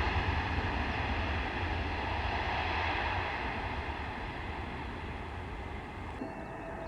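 Jet airliner's engine noise fading away after it passes, a broad steady rush whose higher part dies off first. A few faint high chirps come in near the end.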